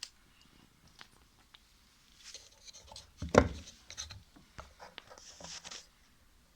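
Small clicks, rubs and knocks of parts being handled while the rubber mounting packing is set under a washing machine motor, with the loudest knock about three and a half seconds in and a brief scraping rustle near the end.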